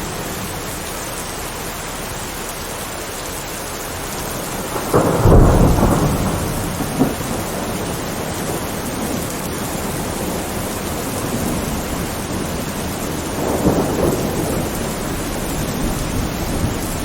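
Steady rain with thunder. A loud rumble of thunder builds about five seconds in, a short sharp crack follows soon after, and a weaker rumble comes near the end.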